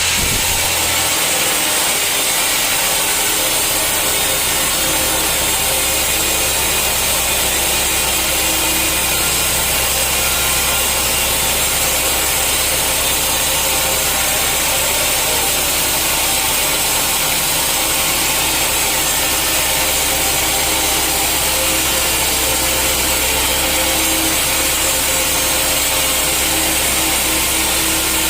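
Sawmill saw blade cutting steadily through a hard teak stump, a continuous loud hissing rasp over the low hum of the machine.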